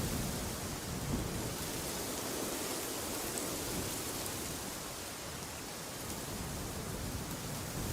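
Steady rushing wind with a rumbling low end, holding at an even level with only slight swells.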